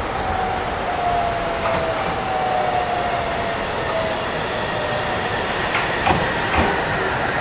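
Electric train running through the station, its motor whine slowly falling in pitch as it slows over steady running noise. Two sharp clacks come near the end.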